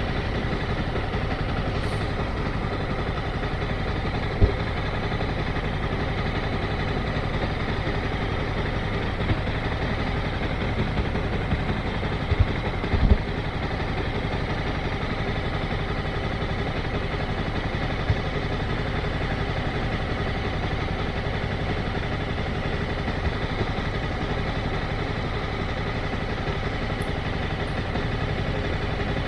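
Motorcycle engine running steadily at an even speed with no revving, and a few brief knocks about four seconds in and again around twelve to thirteen seconds in.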